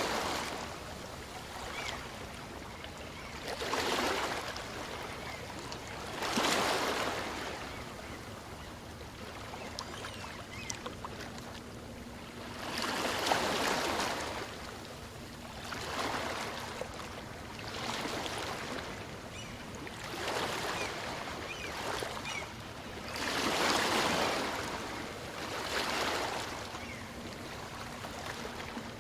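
Small waves on a calm sea breaking and washing onto the shore, a separate swell of surf every two to four seconds over a steady hiss.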